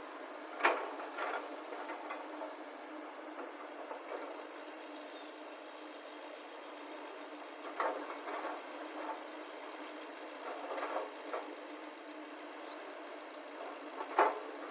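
Excavator and lorry engines running steadily, with several loud knocks and clatters as excavator buckets of soil are dropped into the lorry's steel tipper bed: about a second in, around eight seconds, around eleven seconds and once more near the end.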